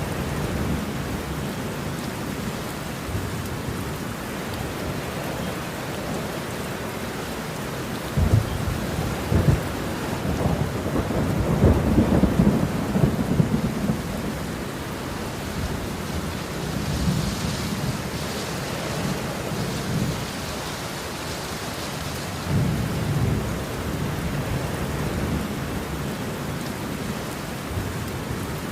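Steady rain with rolling thunder; the thunder swells to its loudest rumble from about 8 to 14 seconds in, with smaller rumbles later.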